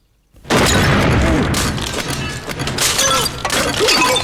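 A loud cartoon crash sound effect with shattering and breaking. It starts suddenly about half a second in and goes on for over three seconds as a dense clatter of knocks.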